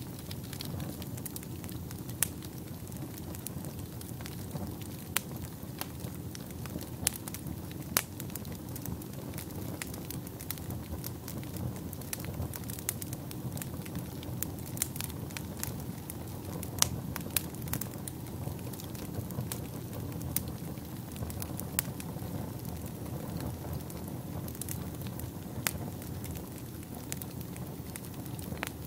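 Wood fire burning in a fireplace: a steady low rumble of flames with scattered sharp crackles and pops, a few much louder than the rest.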